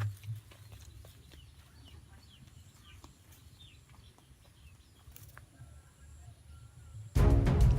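Faint, short bird chirps over quiet outdoor background. About seven seconds in, loud background music starts abruptly.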